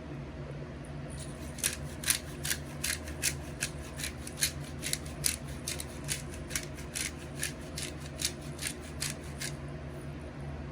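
A spice container being worked to season chicken: a steady run of sharp clicks, a little under three a second, starting about one and a half seconds in and stopping near the end.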